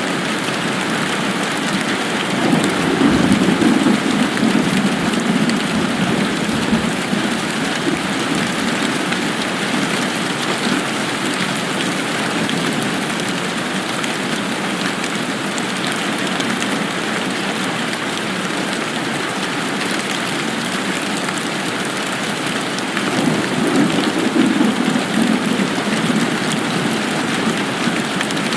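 Steady rain falling, an even hiss of drops, with two swells of low rumble, a few seconds in and again near the end.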